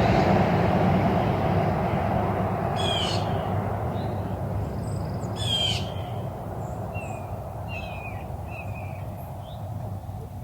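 Bird calls: two short, harsh calls about three and five and a half seconds in, followed by several brief chirps, over a low rumble that fades away.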